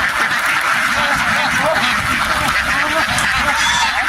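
A large flock of domestic ducks quacking all together in a dense, steady clamour of overlapping calls.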